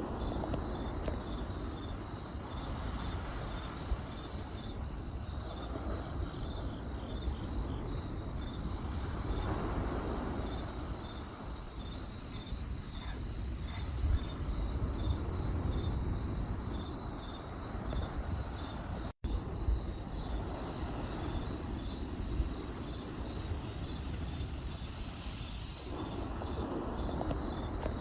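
Crickets chirping in a steady, high, pulsing trill over the low rush of a campfire burning, with occasional sharp crackles and pops from the fire. The sound cuts out for an instant about two-thirds of the way through.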